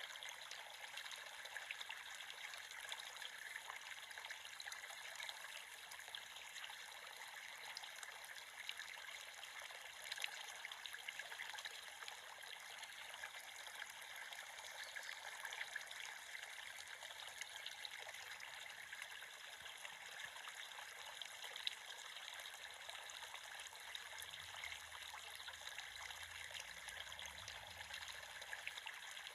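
Creek water running and trickling steadily, a faint even rush with scattered little splashes.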